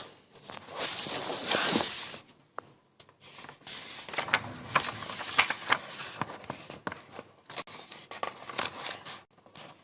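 A rustling hiss lasting about a second, then scattered light clicks and scrapes.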